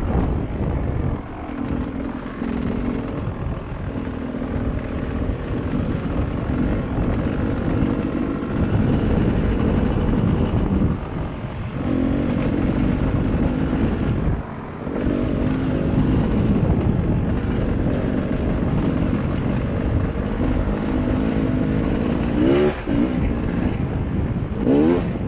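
Dirt bike engine running under way with wind rumbling on the microphone. It eases off twice in the middle and revs up twice near the end.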